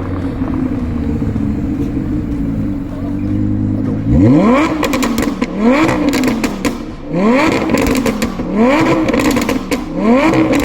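Audi R8's V10 engine idling steadily, then revved in five quick blips about every second and a half, each rising in pitch and dropping back.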